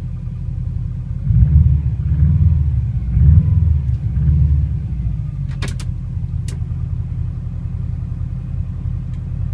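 Subaru Impreza flat-four boxer engine idling after a cold start, swelling louder four times about a second apart between about one and five seconds in. A few sharp clicks come about six seconds in.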